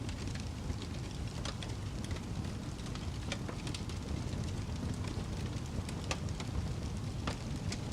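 Crackling fire: a steady low rumble of flames with irregular sharp pops and snaps, a few of them louder than the rest.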